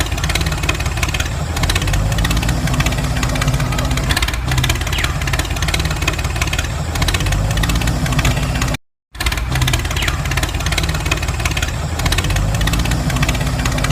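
Engine running steadily at idle with a rapid knocking chug, like a tractor engine. It cuts out for a split second about two-thirds of the way through.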